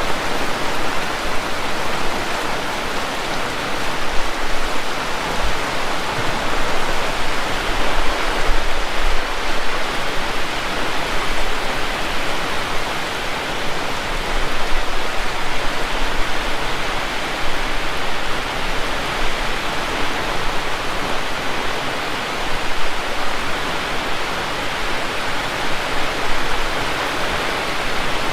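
Heavy rain falling steadily: an even, unbroken rushing hiss.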